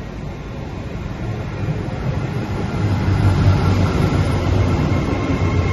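LNER Azuma high-speed train running into the platform. Its rumble grows steadily louder as it comes alongside and passes close by.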